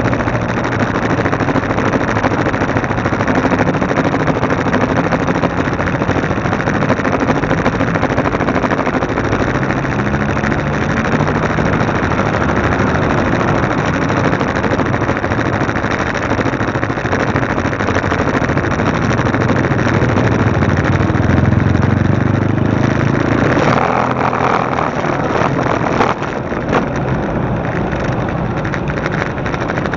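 Motorcycle engine running while the bike is ridden, its pitch shifting up and down with speed, under heavy wind noise on the bike-mounted camera's microphone. The engine grows louder a little past two-thirds of the way through, then eases off.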